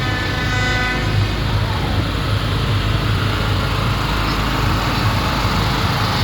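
A horn sounds a steady note that stops about a second in, over the continuous low running of tractor engines.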